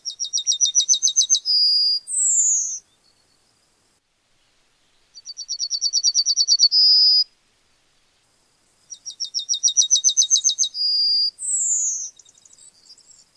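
Yellowhammer singing three songs. Each is a quick run of a dozen or more repeated high notes ending in a longer drawn-out note. In the first and last songs a falling slurred note follows it; the middle song, about five seconds in, ends on the held note alone.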